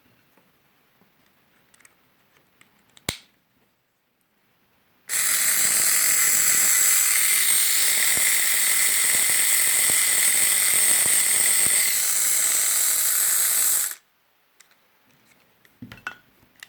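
Braun Silk-épil epilator switched on, running steadily for about nine seconds with a dense mechanical buzz from its motor and gear train, then switched off. A single click comes about three seconds in.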